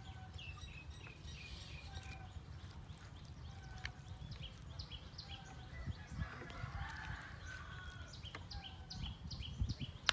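Birds chirping in short, repeated high calls, with a quick run of chirps near the end, over a low steady rumble.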